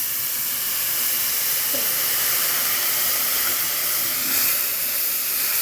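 Loud, steady hissing sizzle of water just poured into a pot of curry frying in hot oil.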